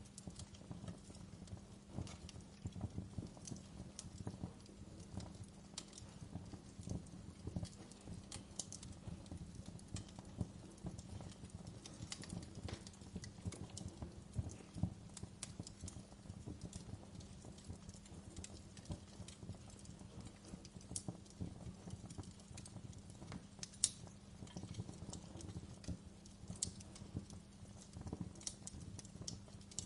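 Wood fire burning in a fireplace: a steady low hiss and rumble with constant irregular crackles and small pops, one sharper pop a little past the middle.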